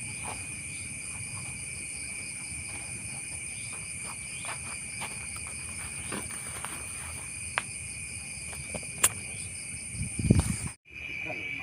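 Steady night chorus of crickets and other insects, a continuous high-pitched trilling, with scattered faint clicks. About ten seconds in come a few louder low thumps, then the sound cuts out for a moment and the insect chorus returns.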